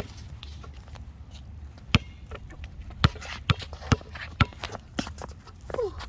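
Basketball bouncing on a hard court: a single bounce at the start, another about two seconds in, then a run of dribbles about two a second from about three seconds in.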